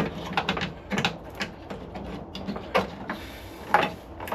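A run of irregular clicks and knocks, with a few louder clacks among them, from small parts and tools being handled.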